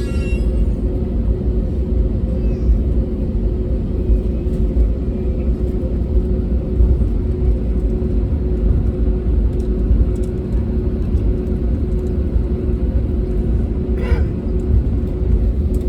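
Steady low rumble and constant hum inside the cabin of an Airbus A320neo, its engines running at an unchanging setting on the ground.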